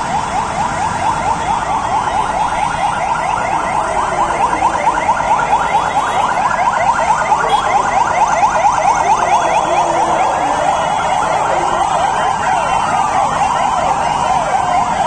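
Several fire engine sirens sounding together in a fast yelp, each a rapidly repeated rising sweep, overlapping one another.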